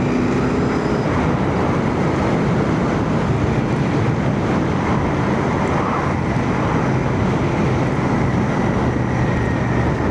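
Steady wind and road noise with the drone of a Royal Enfield Shotgun 650's parallel-twin engine at a constant riding speed, picked up by a microphone inside a full-face helmet with the visor open slightly.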